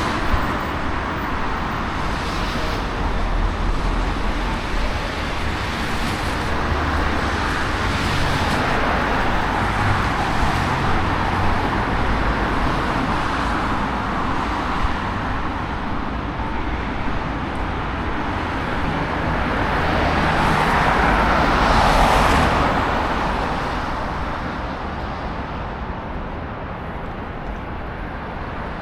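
Road traffic on rain-wet streets: a steady hiss of tyres, swelling as vehicles swish past. The loudest pass comes about three-quarters of the way through.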